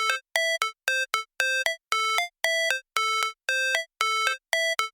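Synthesized electronic beeps: short notes stopping and starting at an even rhythm, about three a second, hopping between a few pitches with silence between them, like a chiptune intro jingle.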